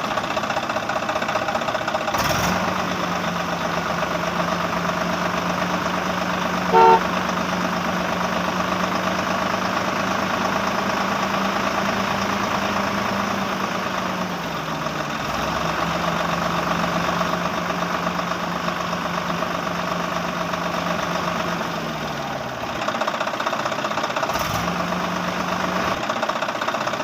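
Small motor of a homemade mini tractor running with a steady hum and whine, its pitch sagging and cutting out a few times toward the end. A short horn beep sounds about seven seconds in.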